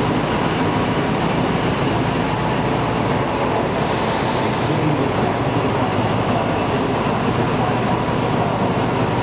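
A moving passenger train running steadily, with an even, continuous running noise and no breaks.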